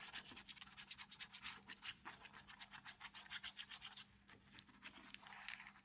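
Faint, quick back-and-forth rubbing strokes as wet acrylic ink is smudged around on packing tape. The strokes stop about four seconds in, with one more near the end.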